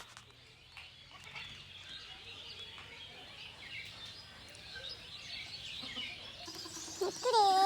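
Faint bird chirping in the open air, with a louder, short call of clear, bending pitch near the end.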